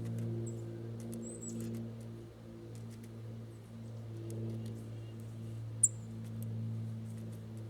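A few short, high bird chirps, the sharpest and loudest about six seconds in, over a steady low hum.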